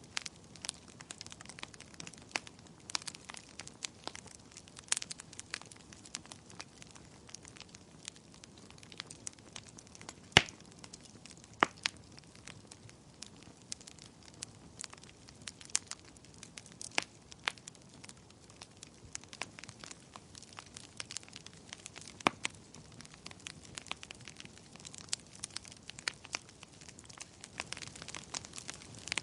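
Wood fire crackling and popping, with irregular sharp snaps over a soft steady hiss of burning, one louder pop about ten seconds in.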